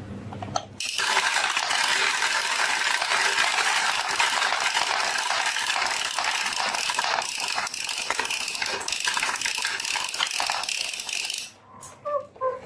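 Many marbles rolling and clattering together down a marble run, a dense rattle of countless small clicks that starts about a second in and stops suddenly near the end.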